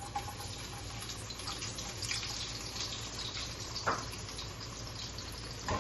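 Garlic sizzling and crackling steadily in hot olive oil in a pan as it starts to brown.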